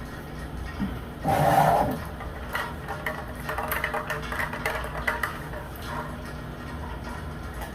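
Close-miked eating sounds from snow crab legs: a loud burst of cracking and sucking about a second in, then a run of small clicks, smacks and chewing. A steady heater hum runs underneath.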